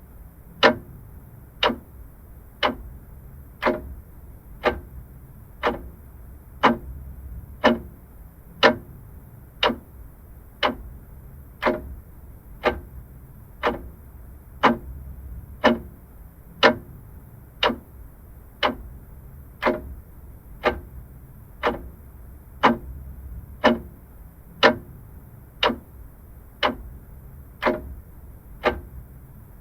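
Vintage mechanical clock ticking steadily, about one crisp tick a second, over a faint low hum.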